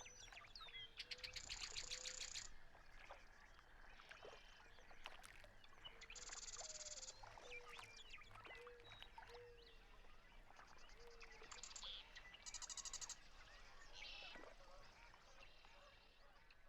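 Faint birdsong from several birds: many short high chirps, with short rapid buzzy trills repeating every few seconds and a soft low note repeated now and then.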